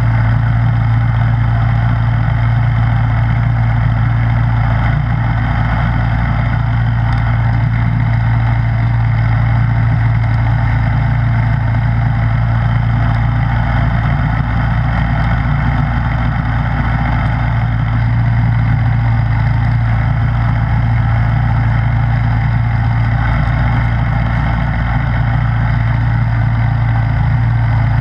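Snowblower's engine running steadily at one constant speed, with an even, unchanging hum.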